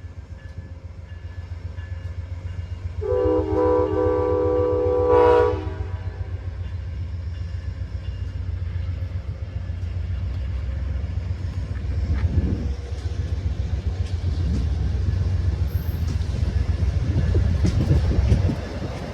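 Amtrak passenger train pulling out, its diesel locomotive rumbling steadily, with one horn blast about three seconds in that lasts a couple of seconds. The rumble grows louder and rougher in the second half as the train rolls past.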